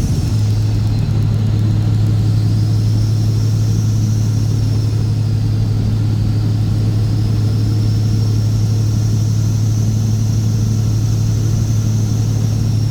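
Straight-piped Cat C15 ACERT diesel in a Kenworth W900 running under way. The engine note drops in pitch right at the start, then holds at a steady engine speed, with a faint high whistle rising and falling above it.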